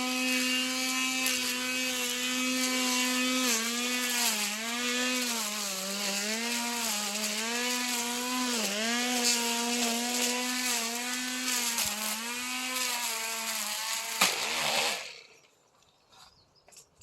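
Petrol brush cutter engine running at high revs, its pitch repeatedly dipping and recovering as the blade cuts into grass. Near the end there is a sharp crack, after which the engine winds down and stops. The cutting blade turned out to be broken.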